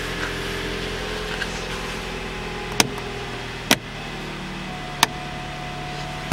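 Toyota RAV4's 2.0-litre four-cylinder engine idling just after being started, heard from inside the cabin. Three sharp clicks come in the second half.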